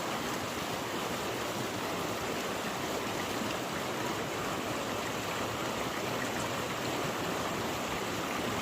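Steady rush of flowing water, an even noise that holds at one level.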